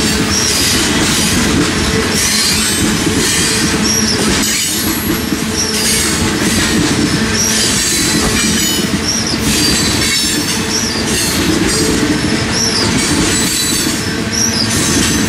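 A long freight train of tank cars rolling past close by: a loud, steady rumble of steel wheels on rail, with short high squeals recurring about once a second.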